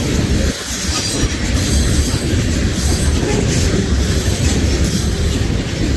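Cars of the CSX M300 freight train rolling past: a steady wheel-on-rail rumble with clatter from the wheels over the rail joints.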